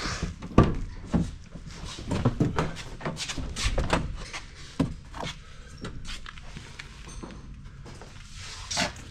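Irregular knocks and clunks, loudest just under a second in and again near the end.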